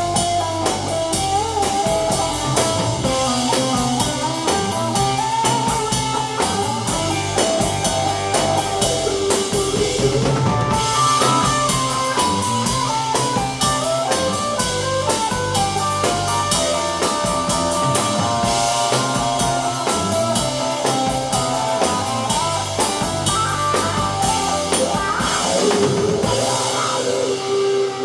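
Rock band playing live: drum kit with steady cymbal strokes, guitar and bass. Near the end the cymbals die away, leaving one held note.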